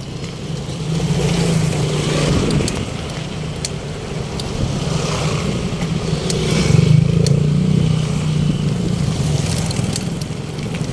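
Street traffic: motor vehicles passing, their engine hum swelling about a second in and again past the middle.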